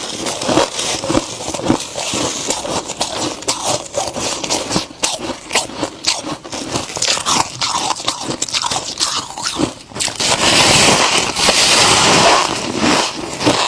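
Close-up biting and chewing of crisp freezer frost: dense, irregular crunching, turning into a louder, more continuous crackle about ten seconds in.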